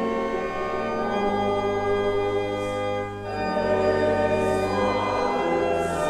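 Church organ playing slow, sustained chords that change every two seconds or so.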